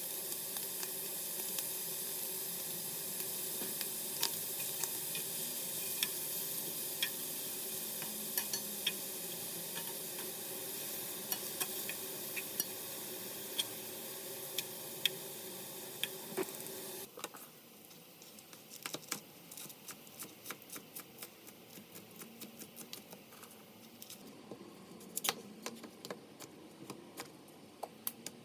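Food sizzling in a frying pan, stirred, with occasional sharp clicks of a utensil against the pan. About two-thirds of the way through the sizzle cuts off suddenly, leaving a run of quieter light ticks and taps.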